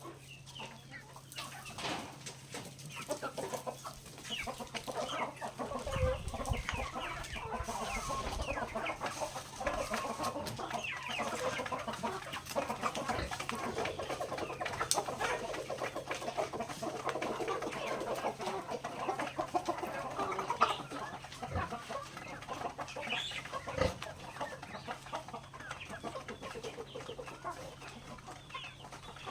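A flock of backyard chickens clucking continuously while feeding on grain, many short calls overlapping, with a steady low hum underneath and a few dull thuds.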